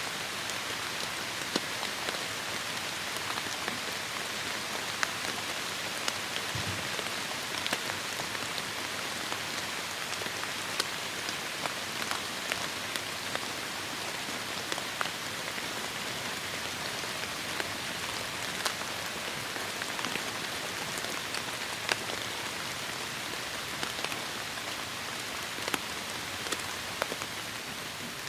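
Heavy rain falling steadily, an even hiss with individual drops striking close by as sharp ticks scattered throughout.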